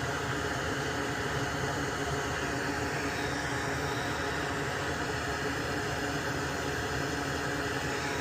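Soldering fume extractor fan running steadily: an even whirring noise with a faint hum under it.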